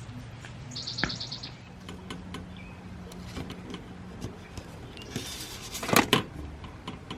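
Quiet room or yard ambience with scattered small clicks and knocks, a short rapid high chirping trill about a second in, and a louder rustling clatter around six seconds in.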